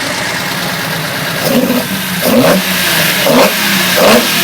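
Nissan L30 straight-six race engine on triple Mikuni 44PHH carburettors idling, then blipped through four quick revs from about one and a half seconds in. Freshly rejetted leaner, to 160 mains and 45 pump jets, after running rich then lean, it is going much better now.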